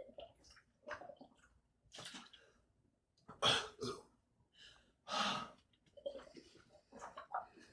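A person chugging a liter of cold sweet tea: soft gulping sounds broken by sharp, loud breaths between swallows, the loudest about three and a half and five seconds in.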